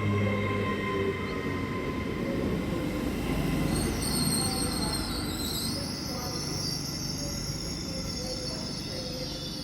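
A train moving on the track with a steady low running hum, joined about four seconds in by high-pitched wheel squeal that wavers in pitch.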